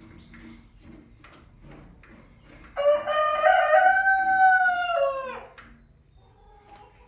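A rooster crows once. The call is loud, lasts about two and a half seconds and drops in pitch at the end, with faint short chirps and clicks before and after it.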